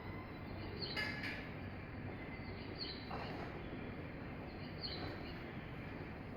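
Short high chirps repeating about every two seconds over a steady low rumble.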